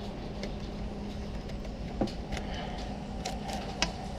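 Handling noise from a camera held in the teeth: a steady low rumble with a faint hum, and a few light clicks and taps from about two seconds in.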